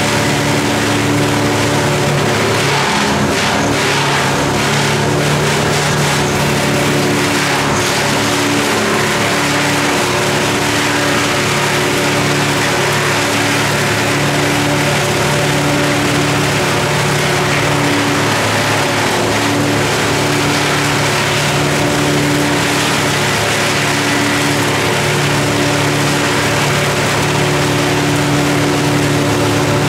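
An engine running steadily at a nearly constant speed, with small brief wavers in its pitch.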